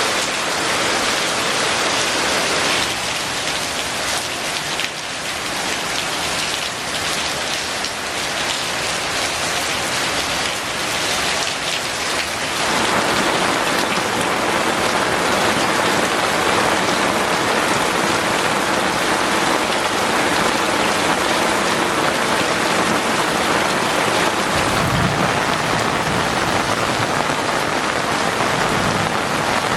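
Heavy rain falling steadily as a dense, even hiss, which grows fuller and a little louder about twelve seconds in.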